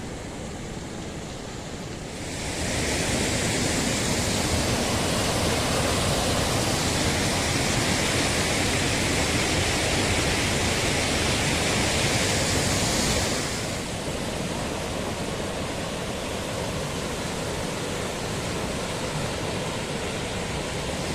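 Swollen creek in flood after heavy rain, its water rushing steadily. It grows louder about two seconds in and falls back somewhat after about thirteen seconds.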